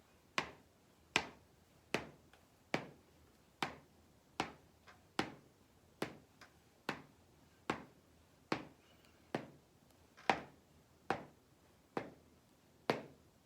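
Steady series of sharp taps, about one every 0.8 seconds, some sixteen in all, pacing a sound drill.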